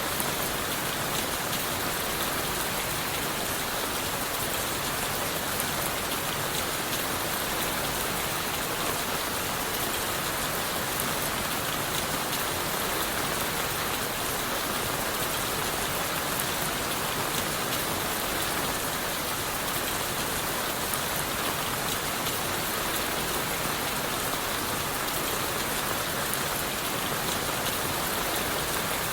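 Steady rain falling on leaves, wood and the forest floor, an even, unbroken hiss of many drops with no thunder.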